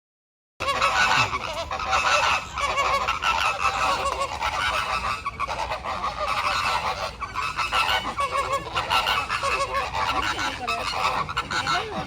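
A flock of birds calling all at once in a dense, overlapping chorus of goose-like calls. It starts abruptly about half a second in.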